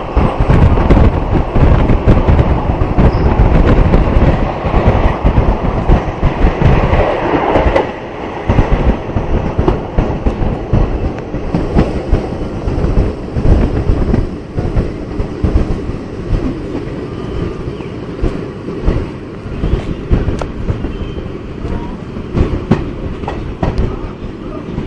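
Passenger train coach running along the track, heard from its open doorway: a steady rumble of wheels on rail with scattered clacks. The rumble is louder for about the first eight seconds, then drops and stays quieter.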